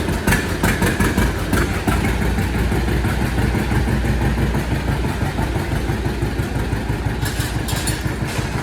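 John Deere Model A tractor's two-cylinder engine running steadily, its exhaust beating in an even, regular rhythm.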